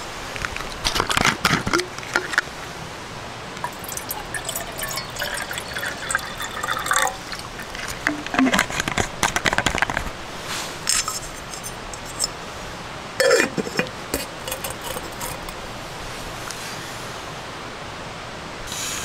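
Liquid being poured, with scattered clinks and knocks in several short bursts.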